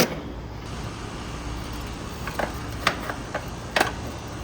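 A few short, light clicks and knocks from tools and parts being handled, over a steady low hum.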